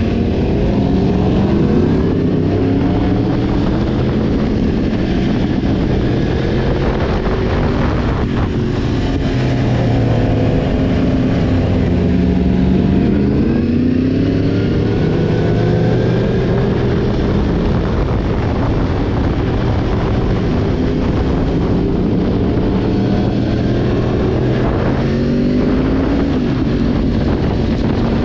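Sport motorcycle engine running under way, its pitch repeatedly rising and dropping as the rider works the throttle, with a steady rush of wind over it.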